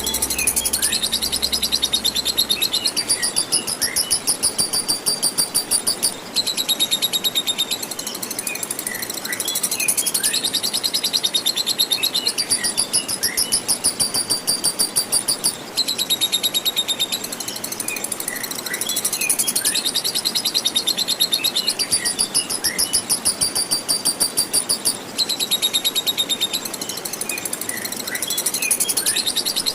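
Lovebird singing ngekek: long, rapid, high-pitched chattering trills in phrases about nine seconds long, each broken by a brief pause before the next. A steady rush of running water sits underneath.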